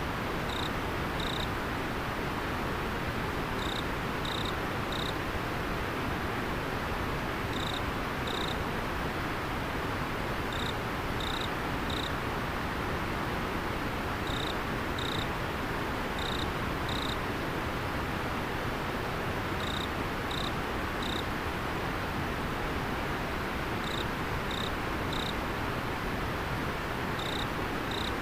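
River water flowing steadily, with an insect calling over it in short high chirps that come in clusters of two or three every few seconds.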